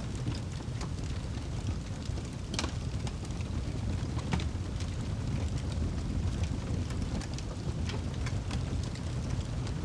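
Wood fire burning in a fireplace: a steady low rumble of the flames with scattered sharp crackles and pops, the loudest a few seconds in.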